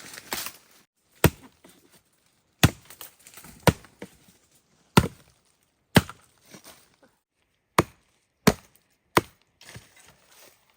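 A blade chopping into wood: about eight sharp strikes at an uneven pace, roughly a second apart, with quieter rustling between them.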